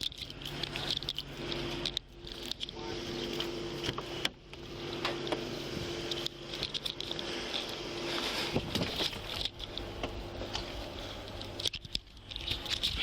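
A vehicle engine running steadily, mixed with rustling, scraping and clicks from the officer's gear moving against the body-worn camera.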